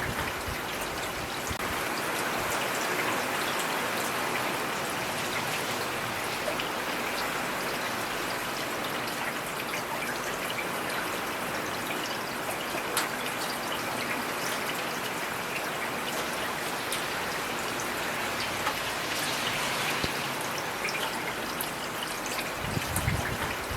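Heavy rain falling steadily: a dense, even hiss full of individual drop ticks. There is a brief low rumble near the end.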